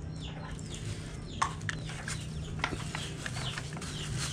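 A few short, soft bird calls, scattered and falling in pitch, over a low steady hum.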